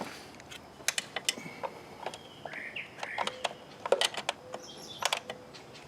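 Irregular metal clicks and clinks of 1/4-inch drive socket tools being worked onto a coil-pack bolt in an engine bay, a few of them ringing briefly. A bird chirps faintly in the background.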